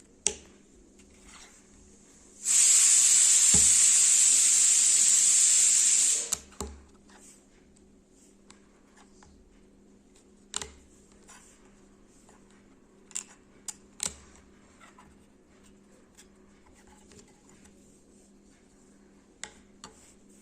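Lego plastic bricks being handled, with sharp single clicks scattered through, a quick pair near the middle. A loud steady hiss lasts about four seconds near the start.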